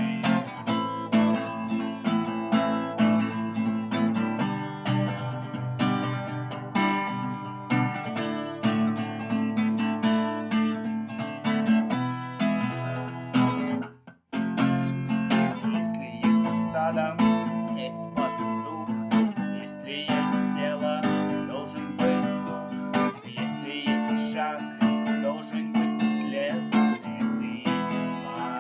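Acoustic guitar strummed in a steady rhythm of chords, breaking off briefly about fourteen seconds in before carrying on.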